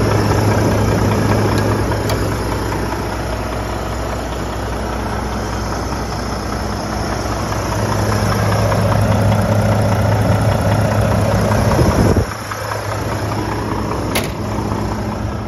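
Volvo FH 540's 13-litre six-cylinder diesel idling steadily, then shutting off abruptly about twelve seconds in. A single sharp click follows a couple of seconds later.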